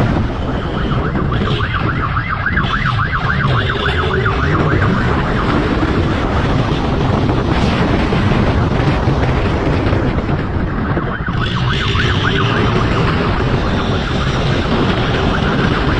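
Police siren on a fast yelp, wavering quickly up and down, sounding twice: about a second in for four seconds, and again about eleven seconds in. Underneath it, vehicle engine rumble and wind rush from a fast chase run steadily.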